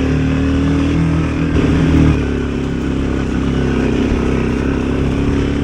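Dual-sport motorcycle engine running as the bike rides along a dirt trail, with a brief rise in revs about two seconds in.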